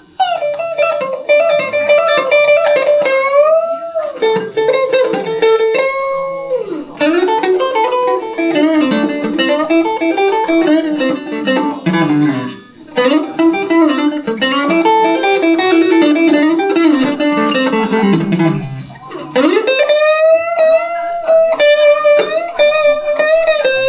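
Electric guitar blues solo, played on a Van Zandt Telecaster through a Roland JC-120 amplifier: single-note lines with many string bends, pausing briefly three times.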